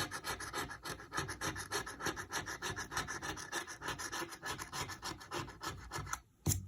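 Rapid back-and-forth scratching of a lottery scratch-off ticket's coating, stroke after stroke, stopping about six seconds in, followed by a single sharp click.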